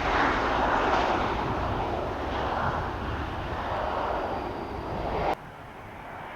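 Jet airliner's engines on landing approach, a loud steady rush that slowly fades and then cuts off suddenly about five seconds in, leaving a much quieter background.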